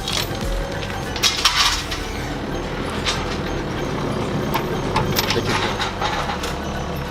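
Scattered knocks and clinks of metal tools and parts, loudest about a second and a half in, over a steady low hum.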